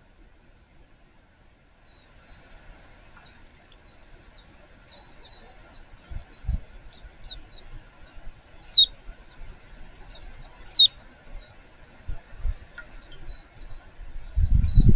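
Small wild birds chirping: a quick run of short high chirps, with two loud downward-sweeping calls around the middle. A few low thumps occur, and a low rumbling noise starts near the end.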